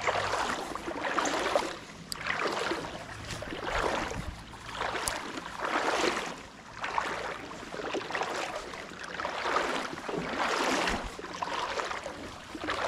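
Legs wading through shallow creek water: rhythmic swishing and splashing, about one stride a second.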